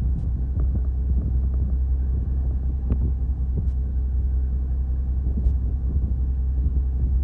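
Fishing boat's engine running, a steady low rumble and hum, with a few faint clicks.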